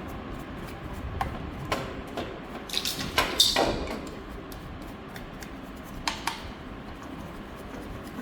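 Small hard objects clinking and scraping a few times, loudest in a cluster about three seconds in, over a steady low hum.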